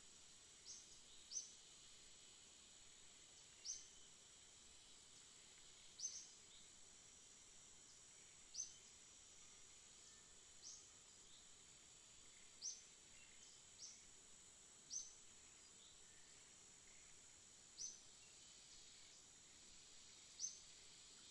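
Small bird chirping: short, sharp, high-pitched chirps, one every second or two, over a faint steady high-pitched hiss.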